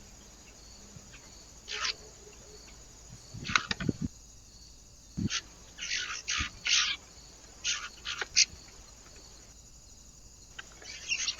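Small birds giving short, scattered chirps, coming in quick runs in the second half, with a few low knocks around the middle.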